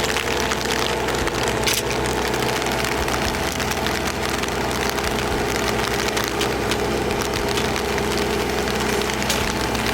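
Engine of the machinery moving the house running steadily, with a constant hum over a rough, noisy background.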